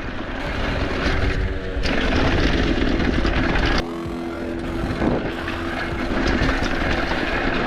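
Wind rushing over a camera microphone and knobby tyres rolling over dirt on a mountain-bike descent: a steady rumbling roar that changes abruptly about two and four seconds in.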